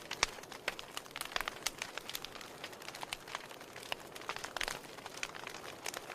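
Burning wood crackling in a fireplace: irregular sharp pops and snaps, several a second, over a soft steady hiss.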